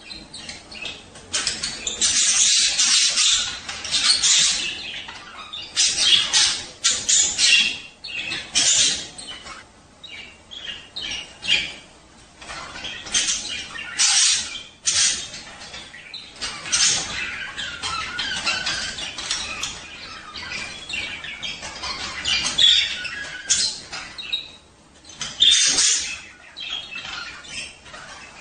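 Budgerigars chattering and squawking, a dense run of short, harsh, irregular calls and warbles, the breeding-time chatter that male budgies make.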